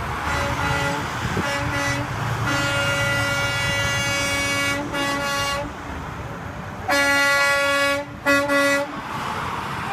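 Truck air horns blasting repeatedly over the low rumble of passing traffic: a few short honks, a long held blast of about three seconds, then two loud blasts near the end.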